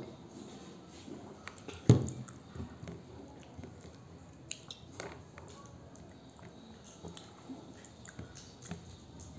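Close-up mouth sounds of a person chewing pork and rice eaten by hand, with small wet smacks and clicks. About two seconds in, a solid knock as a drinking glass is set down on the table.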